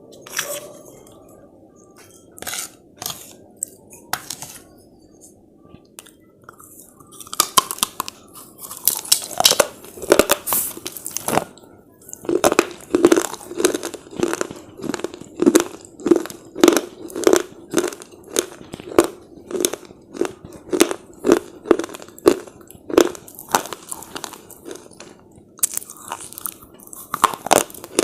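Close-up crunching of hard slate chips being bitten and chewed: a few sharp cracks at first, a cluster of loud bites partway through, then steady rhythmic chewing crunches at about one and a half a second, with another round of bites near the end.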